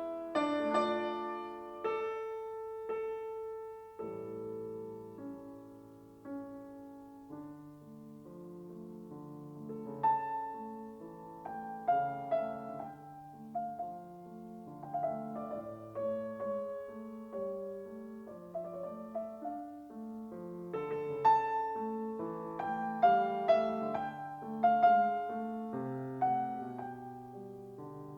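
Solo piano music: a slow, gentle melody over soft chords, each note struck and left to ring, growing fuller in the second half.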